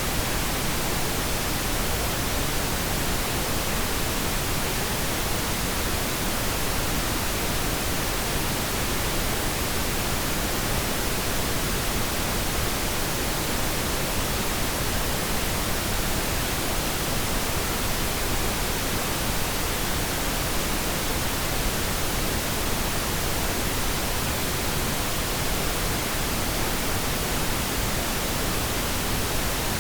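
Pink noise: a steady, unchanging hiss spread across all frequencies, generated as a masking sound for tinnitus.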